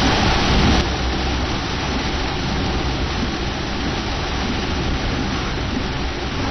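Heavy rain coming down steadily, a dense even hiss, a little louder in the first second.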